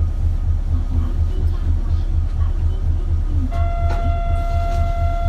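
Cabin sound of an Isuzu KL-LV280L1 diesel city bus, its engine running with a steady low throb. About three and a half seconds in, a steady electronic buzzer tone starts and holds.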